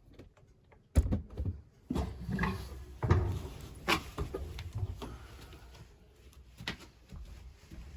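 A stick of firewood being put into a wood stove: a loud knock about a second in, then several more irregular clunks and scrapes of wood and the metal stove door.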